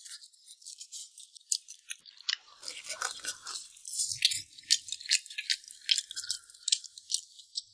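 Close-up eating sounds: chewing with a dense, irregular patter of sharp little clicks and crackles from the mouth and food.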